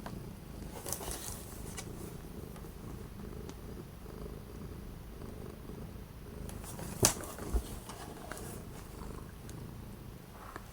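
A house cat purring steadily close by, with a sharp click about seven seconds in and a soft low thump just after.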